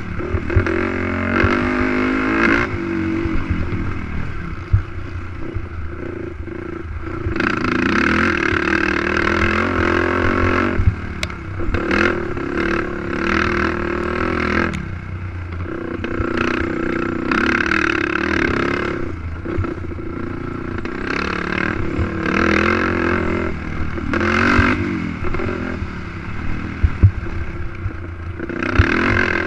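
Racing ATV engine revving hard in repeated surges, the pitch climbing and dropping as the throttle opens and closes, with brief drops between surges. Scattered clatter and knocks from the quad running over rough dirt track.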